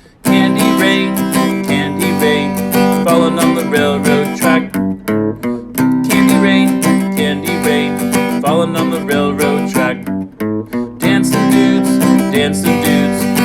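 Acoustic guitar strummed in a steady rhythm, starting sharply just after the beginning, playing the opening of a song.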